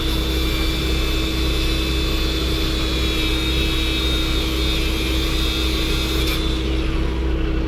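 A motor running steadily with a low hum and a constant tone, plus a higher whine that cuts off about six seconds in.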